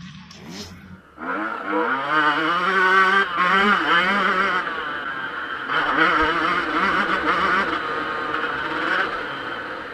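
Yamaha YZ125 two-stroke motocross bike engine revving hard, its pitch climbing and dropping with throttle and gear changes. It comes in loud about a second in.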